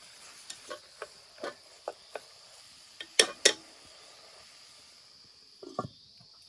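Utensil stirring food in a cooking pan: scattered light clicks and knocks, with two sharper knocks about three seconds in, over a faint steady hiss.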